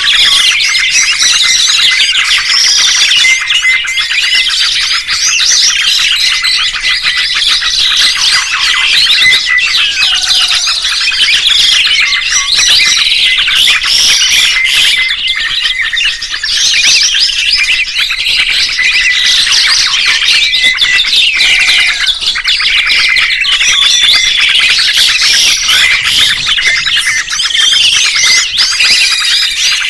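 A dense chorus of many small songbirds chirping and twittering over one another without pause, full of rapid high chirps and whistled glides.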